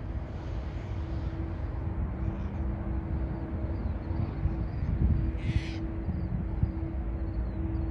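Steady low rumble of distant jet aircraft with a constant hum. A brief hissing burst comes about five and a half seconds in.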